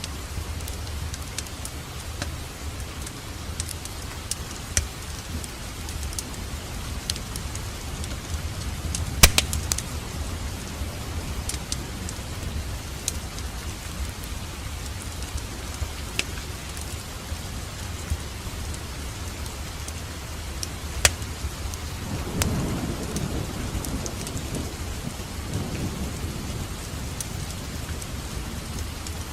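Wood fire crackling in a fireplace: a steady hiss over a low rumble, with scattered sharp pops. The loudest pop comes about a third of the way through. Near the end the low rumble swells briefly.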